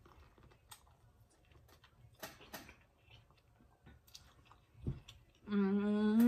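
Close-up sounds of a person biting and chewing corn on the cob: faint, scattered wet mouth clicks and smacks. Near the end a loud, steady hummed "mmm" of enjoyment comes in and is held, wavering slightly as it goes on.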